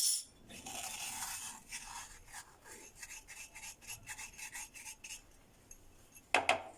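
Granulated sugar poured from a glass into a blender jar of eggs: a grainy hiss, followed by a run of short scraping strokes. A clack at the start and a knock near the end.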